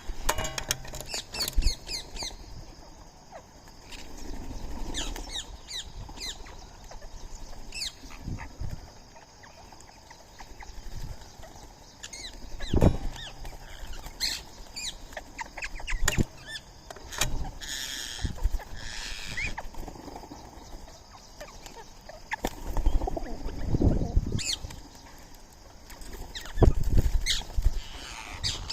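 Birds chirping and squawking in many short, shrill calls, among them Indian ringneck parakeets, with a longer run of calls about eighteen seconds in. Occasional low thumps and knocks come in between.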